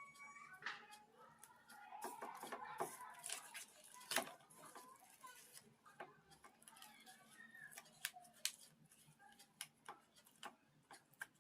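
Quiet eating sounds: scattered soft clicks and wet smacks of pakhala, watered rice, being eaten by hand, with the sharpest click about four seconds in.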